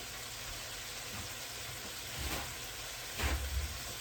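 Chicken breast frying in oil in a skillet, a steady sizzling hiss, with two brief clatters about two and three seconds in.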